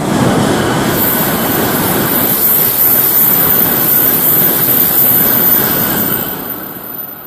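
Tokaido Shinkansen bullet train passing through the station at high speed without stopping. A loud rush of air and rolling noise begins abruptly, holds steady for about six seconds with a high hiss over it, then fades near the end.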